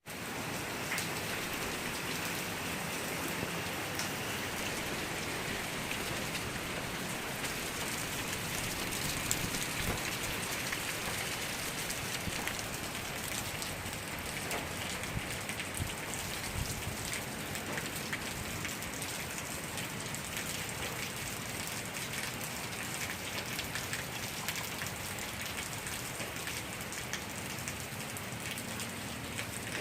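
Steady afternoon rain falling, a continuous even hiss with many small individual drop hits.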